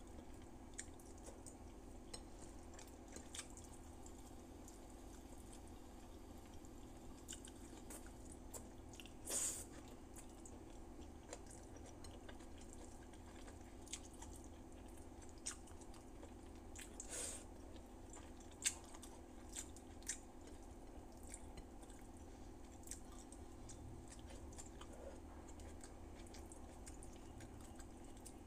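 A person chewing rice and soft vegetables eaten by hand, with scattered faint mouth and finger clicks and two louder wet smacks, about nine seconds in and again some eight seconds later. A steady low hum runs underneath.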